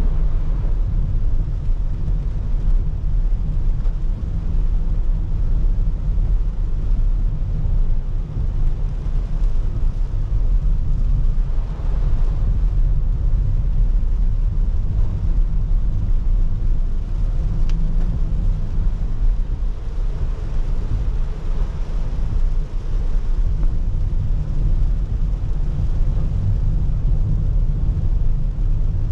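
Car driving on a wet road in the rain: a steady low rumble of road and engine noise with an even hiss of rain and wet tyres.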